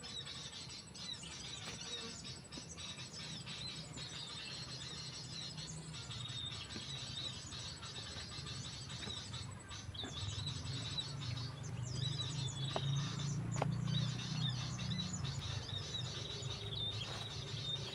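Small birds chirping and twittering over and over, with a low rumble underneath that swells from about ten seconds in.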